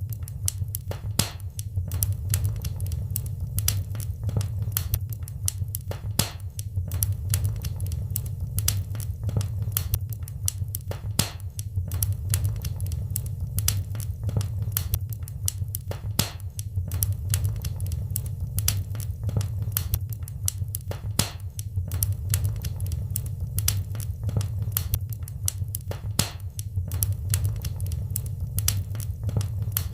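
Wood fire crackling in a fireplace: dense, irregular sharp pops and snaps over a steady low rumble of flames.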